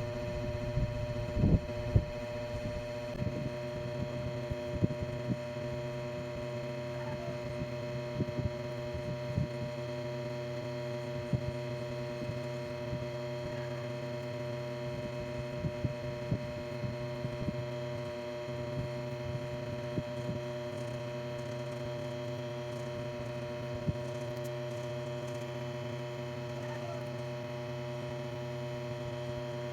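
A steady electrical-type hum made of several even, unchanging tones, with scattered soft knocks throughout and a few louder ones about a second in.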